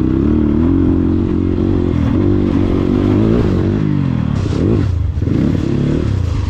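Dirt bike engine running under throttle, steady at first, then falling in pitch and twice dropping and climbing quickly again as the throttle is shut and reopened.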